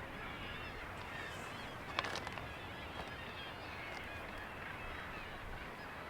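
Seabird colony on sea cliffs calling, with gannets among the birds: many overlapping calls. A sharp click about two seconds in.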